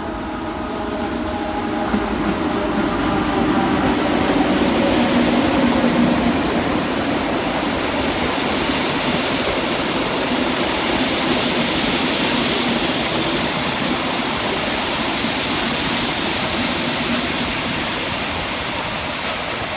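A train running past on the track: a steady rush of wheel and rail noise that swells over the first few seconds and eases off near the end, with a thin, high wheel squeal for a few seconds midway.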